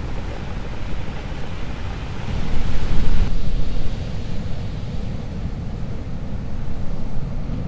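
Stormy sea surf with wind buffeting the microphone, heard as a steady rumble. A wave surges in, louder and brighter, about two to three seconds in, then falls back.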